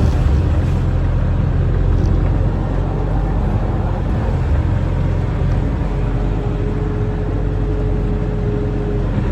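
Barge-mounted excavator's diesel engine running steadily under load, with a deep, even drone. A thin steady whine joins about six seconds in and stops shortly before the end.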